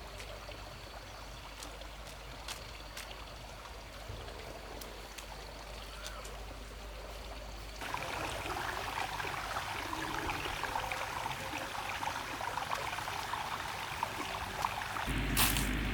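Flowing water with a few light clicks. About eight seconds in it cuts abruptly to a louder, fuller rush of noise.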